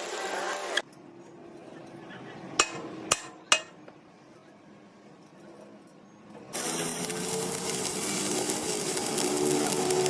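Three sharp knocks on metal about half a second apart, like hammer strikes in a workshop. About two-thirds of the way in a steady, rough machine noise starts up.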